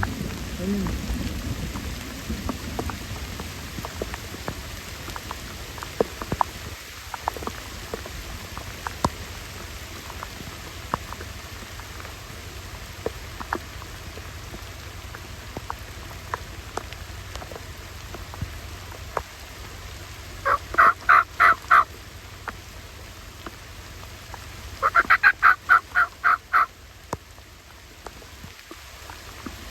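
Steady rain with scattered drop ticks and a low thunder rumble at the start. Twice near the end, a turkey calls in a string of evenly spaced notes: about five the first time, about eight the second.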